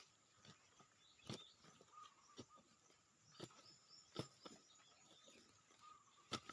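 Near silence broken by about five faint, sharp knocks at uneven intervals, over a faint steady high-pitched background.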